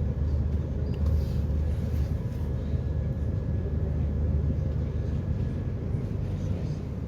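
Passenger catamaran's engines heard on board, a steady low drone with a faint constant whine above it.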